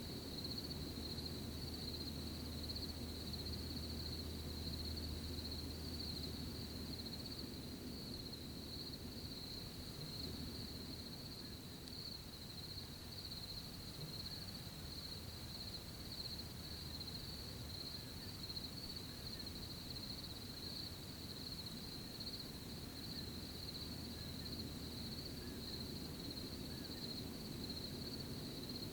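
Night crickets trilling in a steady, unbroken chorus, over a soft low rustle of outdoor ambience.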